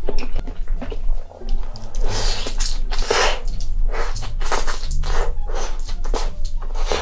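Close-miked wet chewing and mouth smacking of someone eating cheese-covered fries, a dense run of irregular smacks and clicks that gets louder for a second or so in the middle. A low background music bass line runs underneath.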